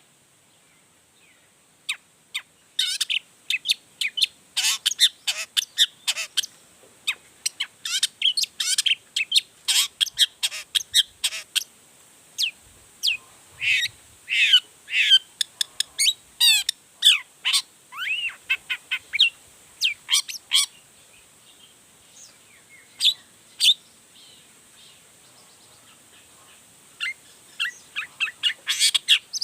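Long-tailed shrike (cendet) singing a rapid, varied string of short sharp calls and notes taken from its repertoire. The song thins out to scattered notes after about twenty seconds and picks up again near the end.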